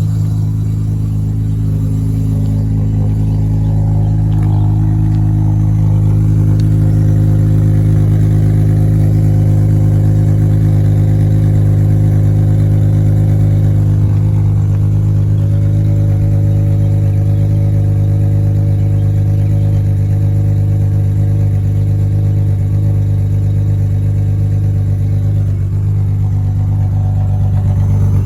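Acura TL's 3.2-litre V6 idling steadily just after a cold start.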